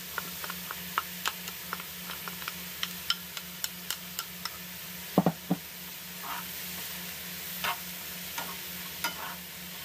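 Sliced mushrooms and chopped red onion sizzling in oil in a nonstick skillet while a wooden spoon stirs them, with many small clicks and scrapes of the spoon against the pan. Two louder knocks about five seconds in.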